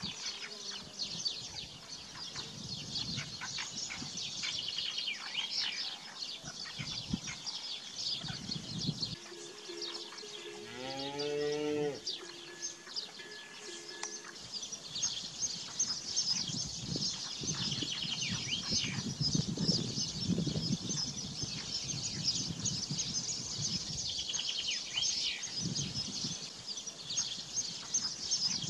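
A cow mooing once about eleven seconds in, a single call rising in pitch, over continuous chirping from many small birds.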